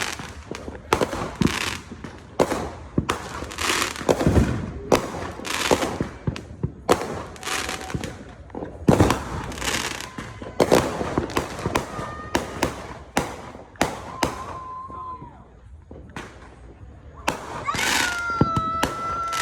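Fireworks going off in rapid, irregular succession: dozens of sharp bangs and pops, several close together. A held high-pitched tone rises over the bangs near the end.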